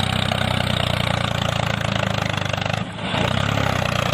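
Small engine of a DIY mini tractor running steadily with a fast, even chug, briefly dropping away about three seconds in.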